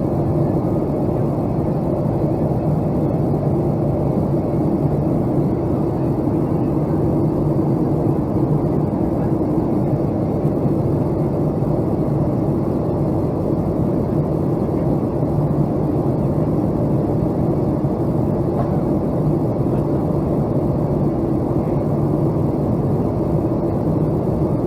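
Boeing 757-200 airliner running, heard as a steady, even drone of engines and airflow with no change in pitch or level.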